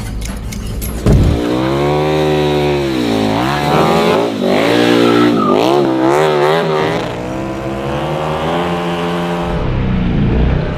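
Motorcycle engine revving up and down repeatedly, the pitch climbing and dropping several times. It starts with a sudden jump in loudness about a second in.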